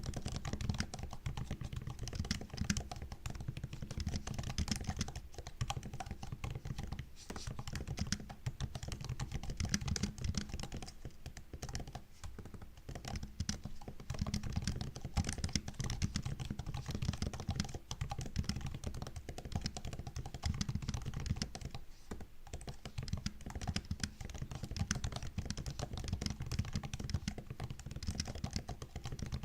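Continuous typing on a MacBook laptop keyboard: a fast, uneven stream of soft key clicks with a few short pauses.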